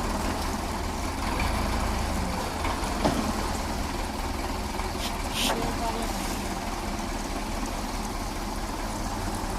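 Truck engine idling steadily, with a couple of brief knocks about three and five and a half seconds in.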